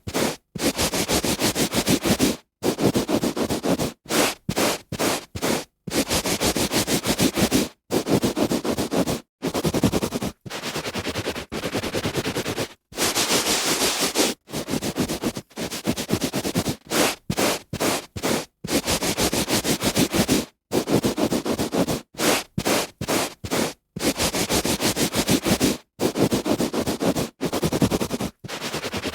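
A hand rubbing back and forth on carpet: repeated scratchy, rushing strokes of friction, each lasting from a fraction of a second to about two seconds, with abrupt breaks between them.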